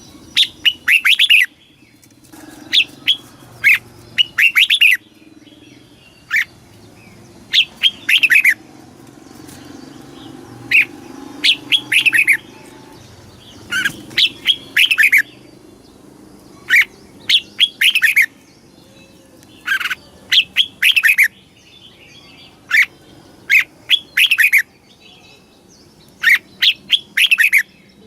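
Red-whiskered bulbul singing: short, loud phrases of quick, clear notes, repeated every second or two.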